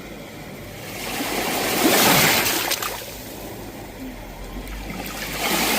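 Sea waves breaking and washing on the shore: one wave swells to a peak about two seconds in and fades, and the next starts to rise near the end.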